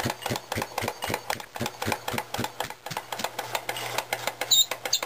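Circa-1900 Brunner air compressor running, belt-driven by a 1/4 hp GE electric motor through a jack shaft: an even, rapid knocking from the compressor's strokes, about five a second, over the motor's steady hum.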